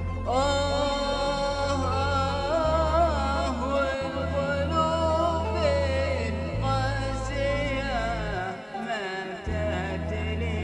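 A male voice singing a long, wavering, ornamented melodic line without clear words over a steady low drone in the accompaniment, in the style of an Arabic chanted poem.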